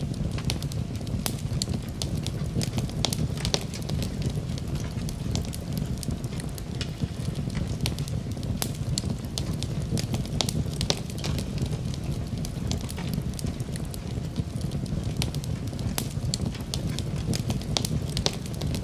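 Wood fire in a fireplace crackling, with frequent sharp irregular pops over a steady low rumble of flame.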